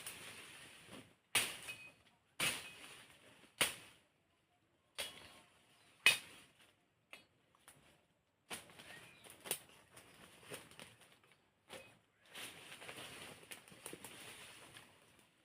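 Machete blows chopping firewood: a series of sharp strikes, about one a second in the first half, with rustling and scraping of the wood between them.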